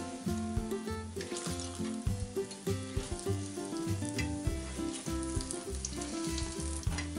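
Yeast-dough pancakes frying in plenty of hot oil in a pan, sizzling steadily. Background music with held notes plays alongside.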